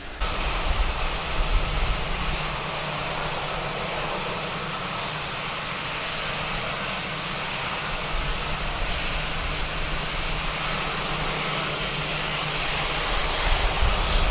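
Cargo jet's engines running, a steady loud rush of engine noise that cuts in suddenly about a quarter second in, with gusts of wind buffeting the microphone.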